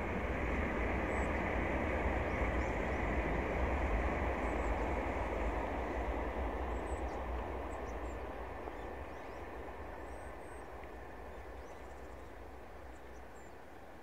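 A Shinkansen high-speed train passing on an elevated viaduct: a rushing noise with a faint high whine in it, loudest in the first few seconds, then slowly fading away. Small birds chirp now and then.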